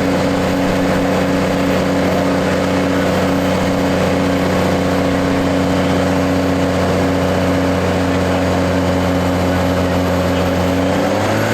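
New Holland T6080 tractor's diesel engine running at a steady, held speed under load on a PTO dynamometer. Near the end its pitch starts to drop as the engine comes off load.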